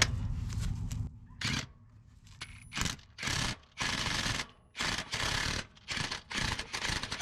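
Impact wrench hammering in about eight short trigger bursts, driving a bolt-extractor twist socket onto a seized 13 mm exhaust manifold bolt to back it out.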